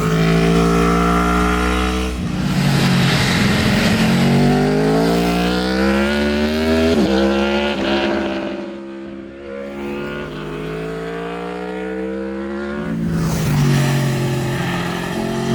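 Aprilia Tuono V4 Factory 1100's V4 engine accelerating hard, its pitch climbing and dropping with each upshift. It eases off around the middle, then pulls again near the end, with wind rush throughout.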